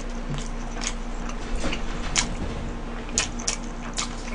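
Close-miked chewing of a mouthful of burger: irregular wet smacking clicks from the mouth, a few each second, over a faint steady hum.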